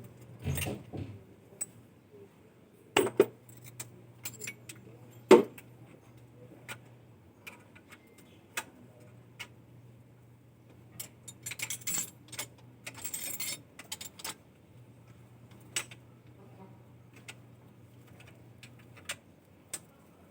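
Scattered metallic clinks and clatter, with two sharper knocks a few seconds in and a longer rattling patch past the middle, over a faint steady low hum.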